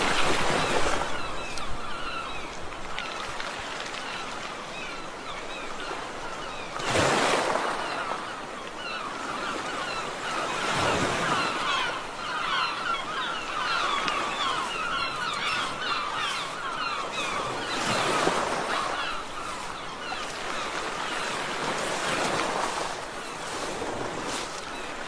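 Many gulls calling at once, a dense chatter of short squawks, over waves that surge in and wash out about every four to seven seconds.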